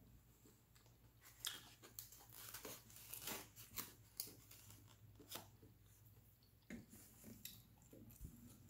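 Faint chewing with scattered light clicks and crackles as a fork and a foam takeout container are handled.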